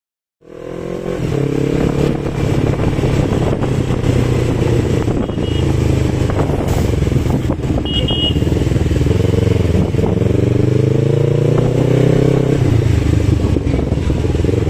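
Motorcycle engine running while riding, its pitch rising and falling with the throttle, over road and wind noise. Two short high beeps come about five and eight seconds in.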